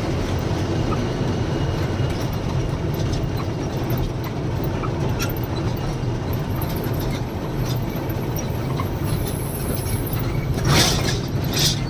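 Heavy lorry's diesel engine and road noise heard inside the moving cab: a steady low rumble with rattling. Two short, louder bursts of noise come near the end.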